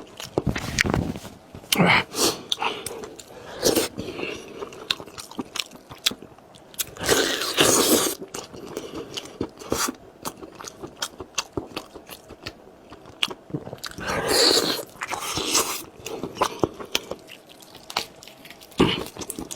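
A person biting and chewing food close to the microphone, with many sharp mouth clicks and several louder bouts of crunching lasting about a second each.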